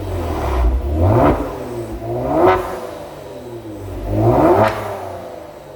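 Kia Stinger 3.3 twin-turbo V6 exhaust through an aftermarket variable-valve muffler, blipped three times: each rev climbs quickly and falls back toward idle.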